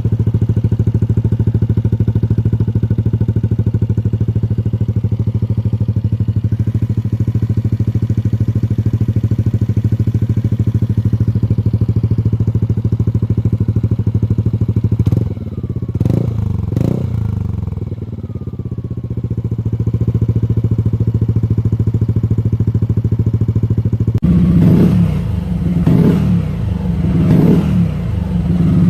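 Yamaha Aerox 155 scooter's single-cylinder four-stroke engine idling steadily through an aftermarket exhaust, then blipped twice and settling back to idle. Near the end, after an abrupt cut, another Aerox with a different aftermarket exhaust idles with four quick throttle blips.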